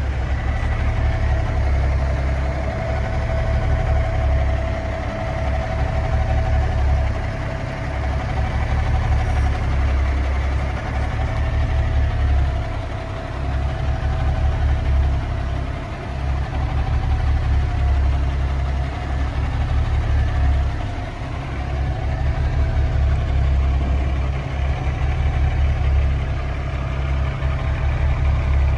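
Natural-gas engine of a Kenworth T800 semi truck idling steadily, a deep rumble with a thin whine that wavers slightly in pitch.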